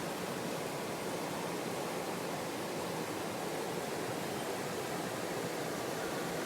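Mountain stream water flowing, a steady even rush with no breaks.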